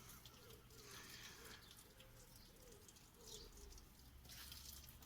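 Near silence, with a bird's faint repeated cooing.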